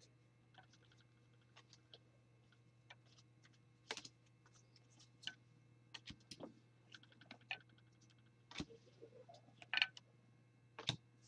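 Faint, irregular clicks and flicks of trading cards being handled and laid down one by one, with a few louder snaps over a steady low hum.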